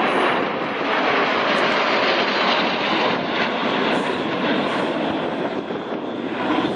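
L-39C Albatros jet trainers flying in formation, their turbofan engines giving a steady, loud jet roar.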